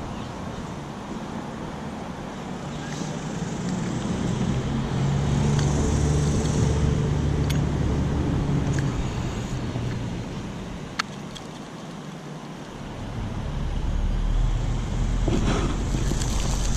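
Passing road traffic: a vehicle engine hum builds and fades over several seconds, then another low rumble approaches near the end. A single sharp click partway through.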